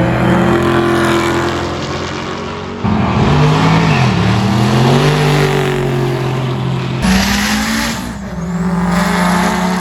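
Loud engines of street cars at full throttle in a series of short cuts, pitch holding steady and then dropping and climbing again as they shift and accelerate.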